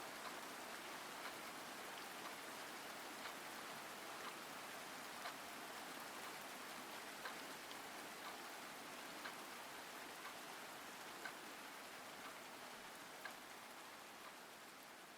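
Rain sound effect: steady rain with a single drip about once a second, beginning to ease off near the end.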